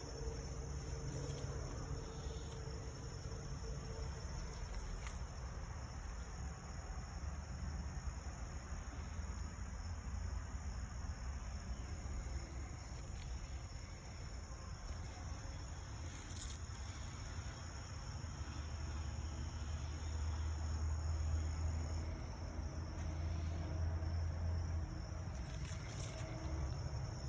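A steady, high-pitched chorus of insects, such as crickets, runs throughout, over a constant low rumble.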